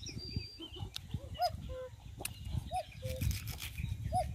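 A bird repeating a two-note call, an arched higher note followed by a flat lower one, three times about a second and a half apart, over a low rumble with a couple of sharp clicks.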